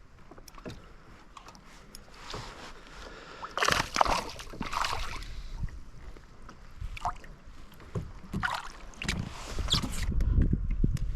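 Water splashing and lapping against a fishing kayak, with a few knocks at irregular intervals and a low rumble rising near the end.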